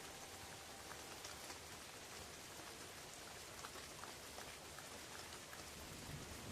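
Light rain falling steadily on forest leaves, with scattered drop ticks; a low rumble starts to build near the end.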